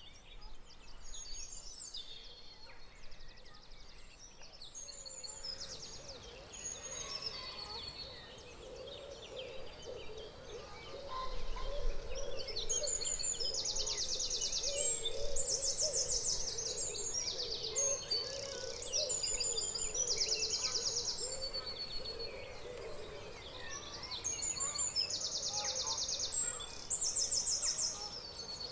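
Dawn chorus: many songbirds singing at once, with overlapping whistled phrases and rapid high trills. A low, wavering call runs underneath through much of the middle.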